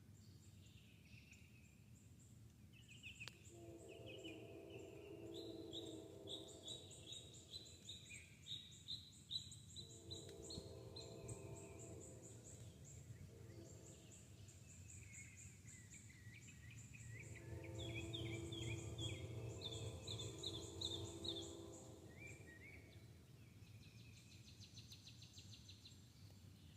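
Faint birdsong: several birds chirping in repeated quick trills. A low pitched hum rises and fades three times underneath.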